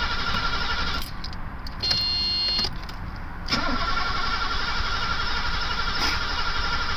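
Mercedes-Benz 560SEL V8 being cranked over on the starter with the ignition disabled, so it turns but does not fire: cranking to build oil pressure after an oil change. It turns over fast on a fresh battery, stops about a second in, a short tone sounds, and the cranking starts again at about three and a half seconds.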